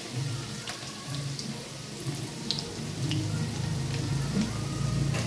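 Potato cubes frying in hot mustard oil in a wok: a steady sizzle with scattered crackling pops. Water runs from a tap, growing louder about three seconds in.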